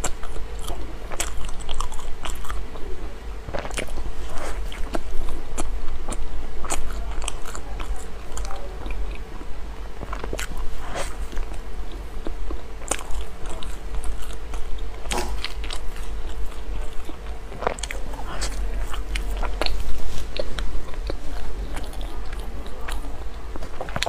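Close-miked biting and chewing of flaky pork floss bread: many small crisp crackles of the layered crust amid soft mouth sounds, over a faint steady hum.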